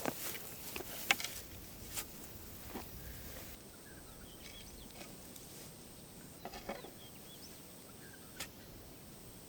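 Sharp knocks and clicks in the first few seconds, then a quieter outdoor stretch with birds chirping faintly and a few more short clicks.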